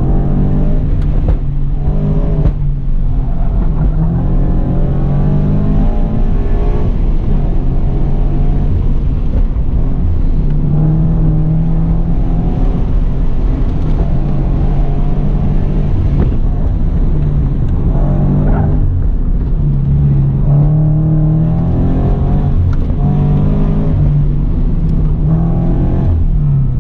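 Toyota 86's flat-four engine revving up and falling back again and again as the car is driven hard through an autocross course, heard from inside the cabin.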